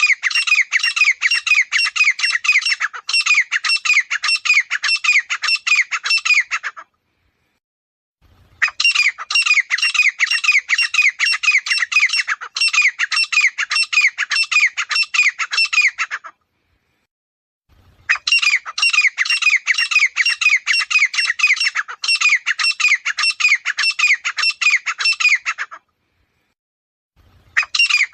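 Grey francolin calling: loud bouts of rapid, repeated shrill notes, several a second. Each bout lasts about seven and a half seconds and is followed by a short silent gap. There are three full bouts, and a fourth starts near the end.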